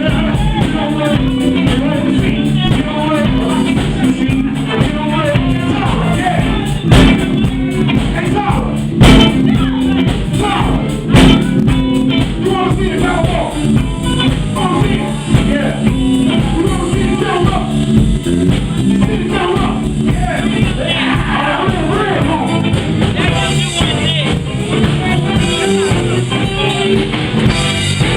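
Live band playing blues-style music with electric guitar, drums and a singer. Three sharp, loud hits come around a third of the way in.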